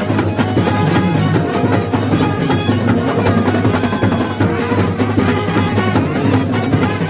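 Loud, continuous festival drumming in a dense rhythm, with short melodic tones sounding over the drums.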